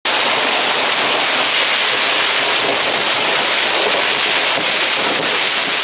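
Heavy rain pouring down: a loud, steady hiss of rainfall.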